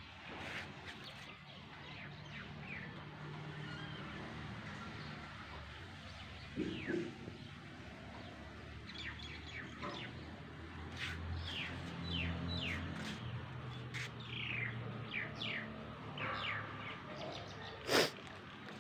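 Small birds chirping in quick series of short falling chirps, busiest in the second half, over a low steady hum. A single sharp click near the end is louder than the birds.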